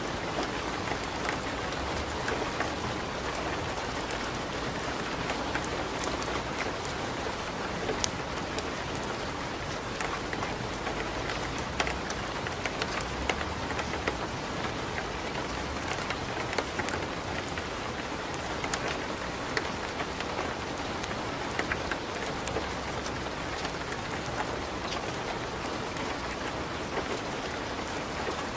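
Steady rain, with the scattered sharp crackles and pops of a fireplace fire.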